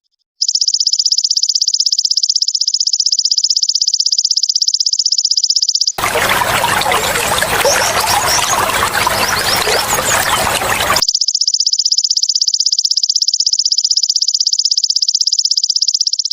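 Belalang emas (golden grasshopper) calling in a high-pitched, fast, continuous buzzing trill. About six seconds in, the trill gives way to roughly five seconds of trickling water, then starts again.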